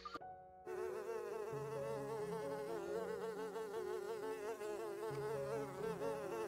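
Honeybees buzzing at the hive entrance: a steady, gently wavering drone of many wings that starts a little over half a second in.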